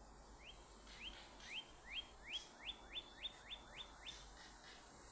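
A songbird singing a series of about a dozen short rising notes that come faster as the song goes on, then stop about four seconds in.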